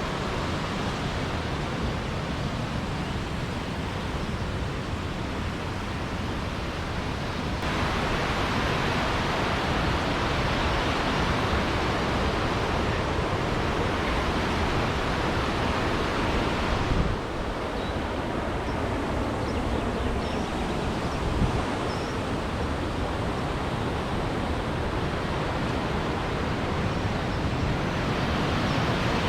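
Steady rush of falling water from a mountain waterfall. It gets louder and brighter suddenly about 8 seconds in, then drops back about 17 seconds in.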